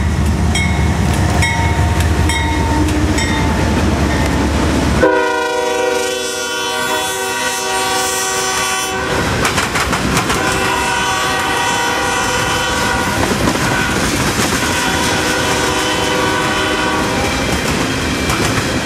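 A CSX juice train led by ES44DC diesel locomotives passing close by. Heavy engine rumble and wheels clicking over rail joints give way about five seconds in to three long blasts of the locomotive's multi-note horn.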